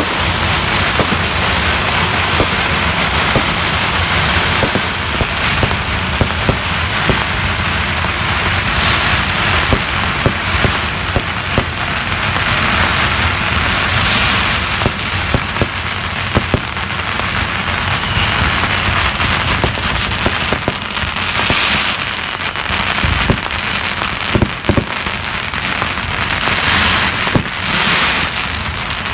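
Fireworks and strings of firecrackers going off: a dense, unbroken crackle with many sharper bangs. Short, high, falling whistles recur through the middle.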